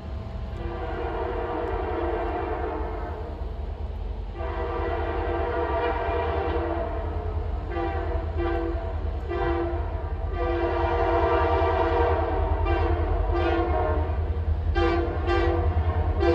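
Diesel locomotive's air horn sounding a sequence of long and short blasts, several notes at once, over the low rumble of the approaching train, which grows louder.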